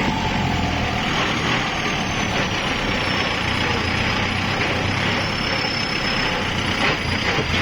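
Kubota tractor's diesel engine running steadily under a continuous mechanical din, with a faint high whine that slides slowly lower and a couple of short knocks near the end.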